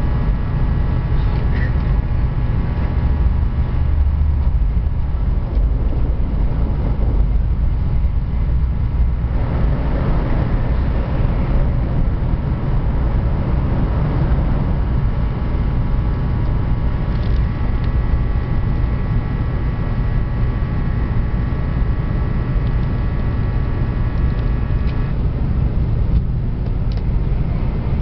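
Train running: a steady low rumble with faint, steady whining tones above it that shift slightly near the end.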